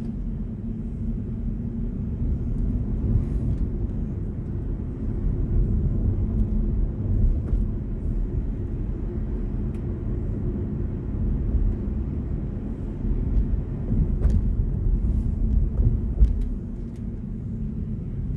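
Steady low rumble of tyres and road noise from a moving BMW i4 M50, an electric car with no engine sound, with a few faint clicks.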